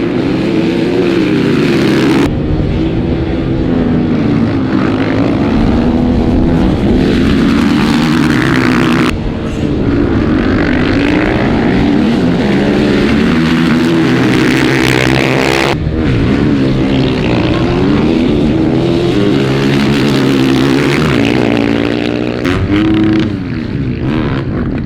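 Dirt bike engine under hard throttle, its pitch rising and falling as it revs and shifts. The sound changes abruptly several times.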